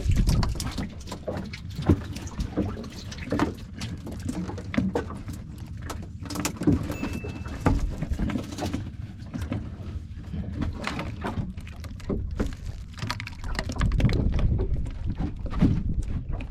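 On-board sounds of a small fishing boat at sea: a steady low rumble with frequent irregular knocks and clicks of gear and hull.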